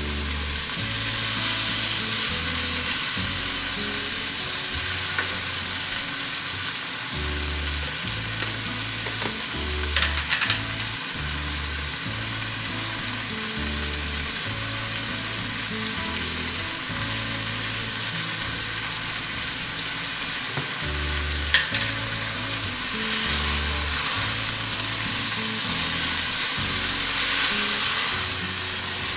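Beef, onion and garlic sizzling steadily in a copper pan while a wooden spoon stirs them, with a couple of short sharp clicks about ten seconds in and again a little past twenty seconds.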